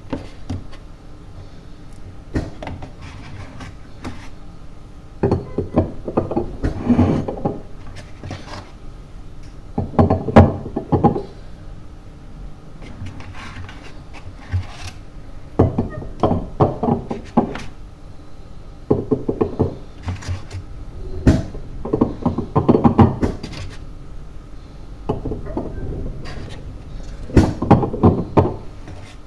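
Bursts of knocking, clattering and rubbing from things being handled and moved about, coming in clusters of a second or two several times.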